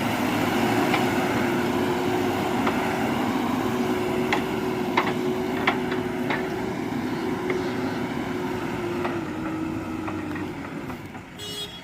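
Heavy vehicle engine running steadily with a droning whine, with a few sharp metallic clanks around the middle. It fades away near the end.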